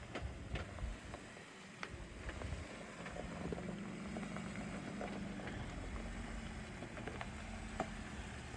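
Jeep engine running at low speed, its hum growing steadier from about three seconds in, with scattered clicks and knocks from the vehicle working over rough ground.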